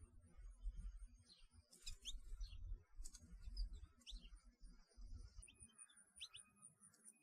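Songbirds chirping faintly: scattered short, high chirps that slide downward in pitch, in a few small groups, over a low uneven rumble.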